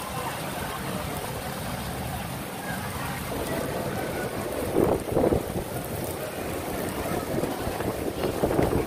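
Rain falling in strong wind, a steady rushing noise, with louder gusts hitting the microphone about five seconds in and again near the end.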